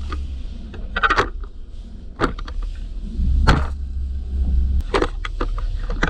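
Pickup truck's 5.4-litre engine idling as a low rumble, with a handful of short sharp clicks and knocks scattered over it, about a second in, a little after two seconds, around three and a half seconds and twice near five seconds.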